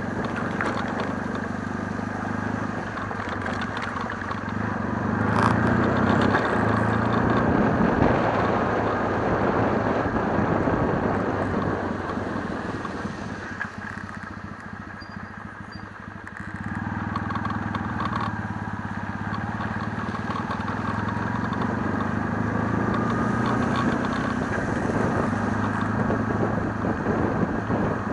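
Kawasaki W650's air-cooled parallel-twin engine running on the move, under a steady haze of wind and road noise. It grows louder about five seconds in, eases off to a quieter run around fourteen seconds, and picks up again about two seconds later.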